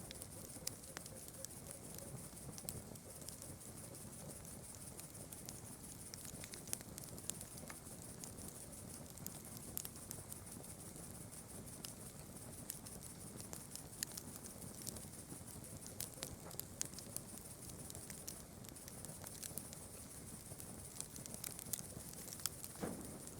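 Campfire crackling: scattered sharp snaps and pops of burning wood over a constant high chirring of night insects. One brief rising call near the end.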